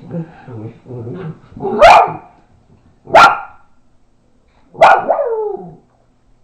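Dachshunds playing rough, with low growling and then three loud, sharp barks a little over a second apart, the last one longer and falling away.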